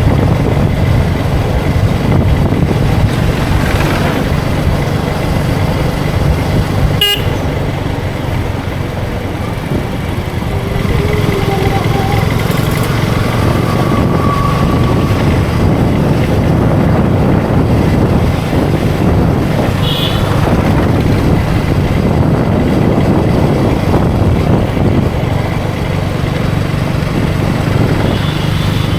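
KTM Duke 250's single-cylinder engine running steadily at riding speed, with wind and road noise. A few short horn toots from other traffic are heard, and there is a sharp click about seven seconds in.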